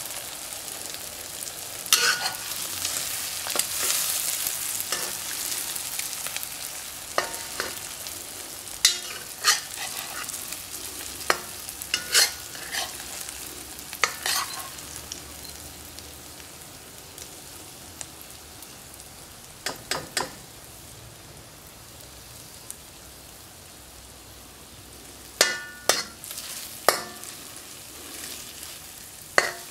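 Eggs, sausage and peppers frying in a wok with a steady sizzle that is loudest in the first few seconds and then dies down, while a metal spatula scrapes and clinks against the wok now and then, sometimes several clinks in quick succession.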